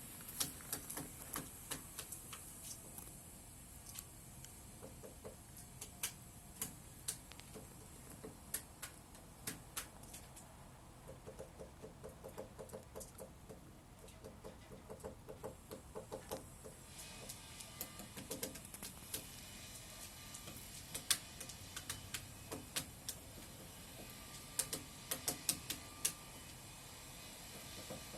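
Woodpecker pecking at wood while foraging for insects: sharp, irregular taps, with a quicker, more regular run of taps for several seconds around the middle.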